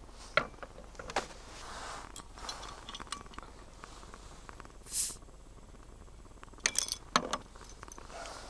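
Scattered knocks and light clinks of objects being handled, with a short hiss about five seconds in and a quick run of knocks a couple of seconds later.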